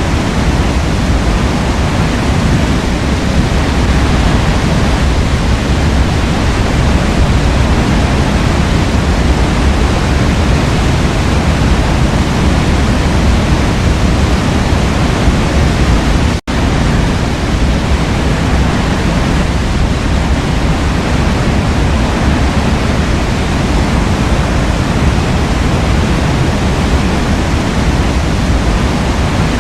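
A waterfall rushing in a loud, steady roar of water, with a split-second break in the sound about halfway through.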